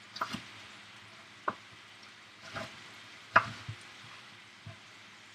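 A knife chopping bell pepper into cubes on a cutting board, in a handful of separate, irregular knocks. Under it, chicken strips sizzle faintly in oil in a frying pan.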